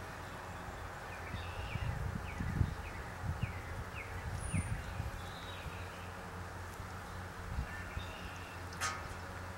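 Outdoor ambience over a steady low hum, with a bird repeating short falling chirps about twice a second for a few seconds. Soft low bumps and rustling come at the same time, and a short sharp click comes near the end.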